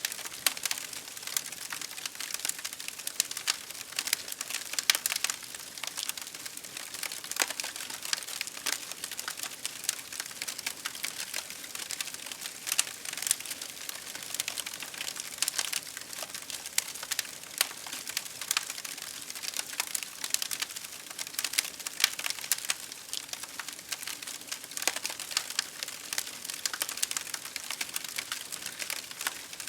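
Campfire crackling: a dense, irregular run of snaps and pops from burning wood over a steady hiss.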